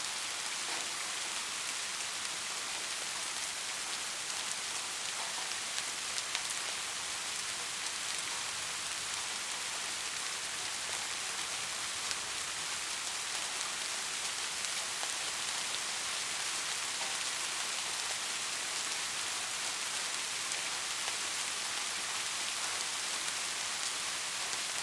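Steady heavy rain: an even hiss with scattered individual drops ticking through it.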